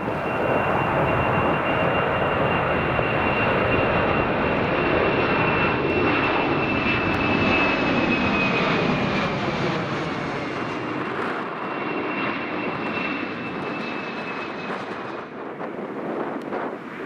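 Airliner passing low overhead: loud engine noise with a high whine that drops slightly in pitch about halfway through as it goes by, then eases off.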